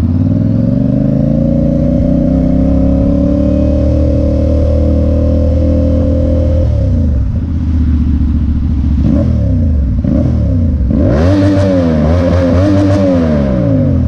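Motorcycle engine pulling steadily with its pitch rising for about six seconds, then falling as it slows, followed by a couple of shorter rises and falls. A rush of wind noise on the microphone comes in about eleven seconds in.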